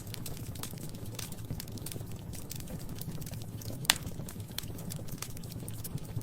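Wood fire crackling in a fireplace: irregular small pops and snaps over a low steady rumble, with one sharper, louder pop about four seconds in.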